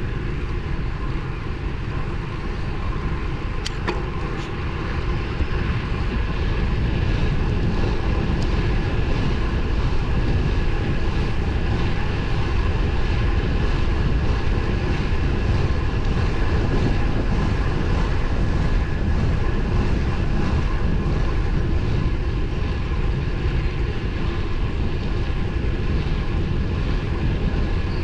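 Wind rushing and buffeting over the microphone of a moving road bike, with tyre and road noise beneath; it grows louder about six seconds in. Two sharp clicks come about four seconds in.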